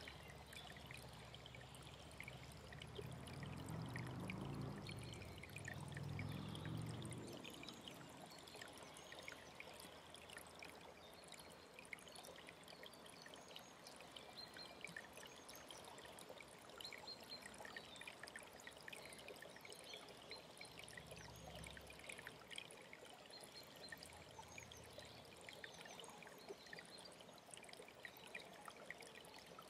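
A mountain stream trickling and splashing steadily, with small birds chirping and singing over it. A low rumble swells for a few seconds near the start and returns briefly later.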